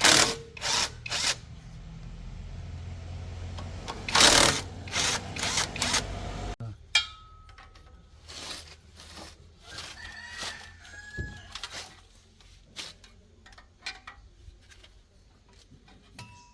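Sharp metal knocks and clanks of tools on truck parts, several in quick succession over a low steady hum. After an abrupt drop about six and a half seconds in, only fainter scattered clicks and taps remain.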